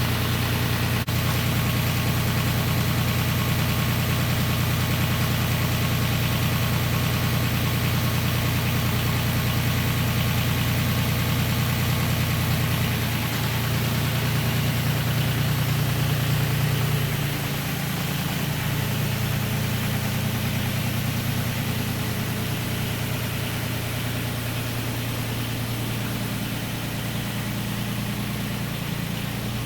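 An engine idling steadily, stepping down slightly in level about seventeen seconds in.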